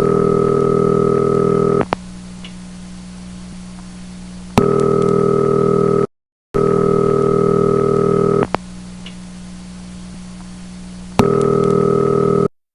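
Telephone ringback tone on an outgoing call: a steady buzzing ring about two seconds long, repeated three times with quieter pauses between, with small clicks where the ring starts and stops.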